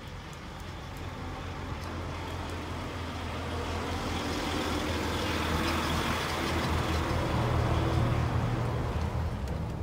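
A truck engine running, its sound growing steadily louder through most of the stretch and easing a little near the end.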